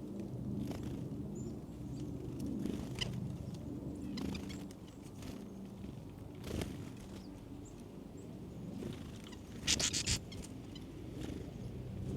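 Small birds' short high chirps now and then over a steady low hum, with scattered faint clicks. About ten seconds in comes a quick cluster of sharp rustling clicks, the loudest sound.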